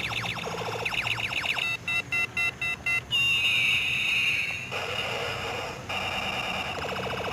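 Electronic sound effects: a fast run of chirps, then five short beeps about two seconds in, a falling whistle, and a buzzy repeating tone to the end.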